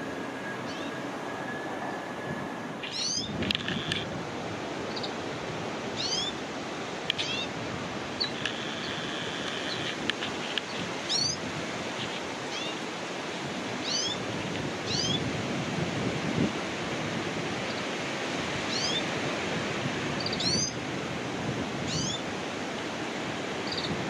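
Small birds calling: short, high chirps that fall in pitch, repeated every second or two, with a couple of brief buzzy notes, over a steady background rush.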